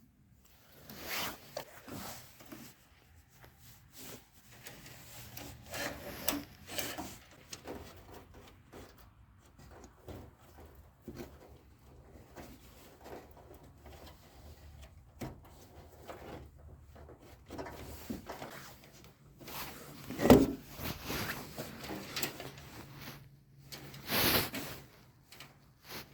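Irregular rubbing and scraping handling noises, with two louder knocks about twenty and twenty-four seconds in.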